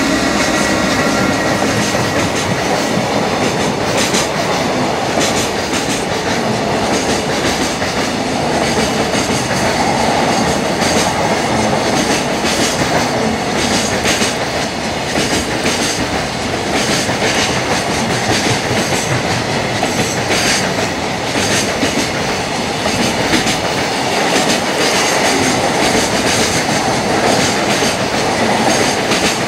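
JR Freight freight train of wagons passing at speed: a steady rumble of steel wheels on rail, with repeated clacks as the wheelsets cross the rail joints.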